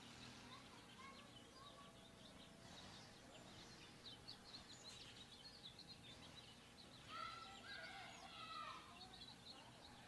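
Faint birdsong: a run of quick, high chirps, then a louder, harsher call of several notes about three seconds before the end.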